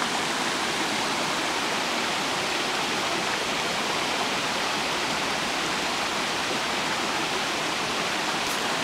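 Stream rushing over rocks in a steady, loud stretch of white water.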